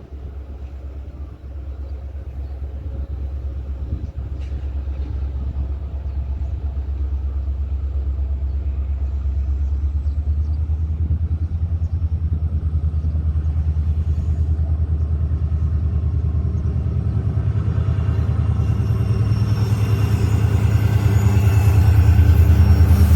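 A train approaching, its locomotive's low rumble growing steadily louder, with a deeper engine drone and several steady tones coming up strongly in the last few seconds.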